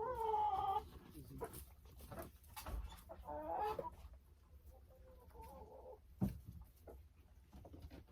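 Domestic hens calling: a drawn-out call at the start and another about three and a half seconds in, with fainter calls after, and a single knock about six seconds in.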